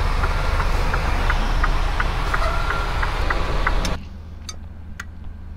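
Semi-truck diesel engine idling steadily, with short high notes over it. About four seconds in the sound drops abruptly to a much quieter background with a few sharp clicks.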